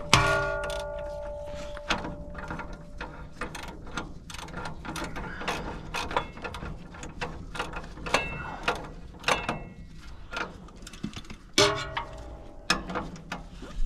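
Hand tools working on metal: irregular clicks, taps and knocks from wrenches and bolts as a truck driveshaft is bolted in. A ringing metallic clang comes at the very start and another near the end.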